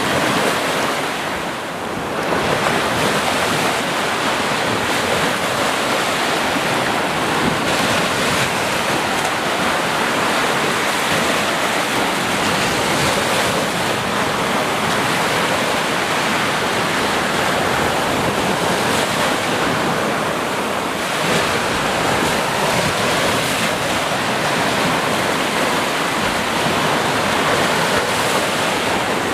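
Sea surf: waves washing onto the shore in a steady, continuous rush, with a brief lull about two seconds in.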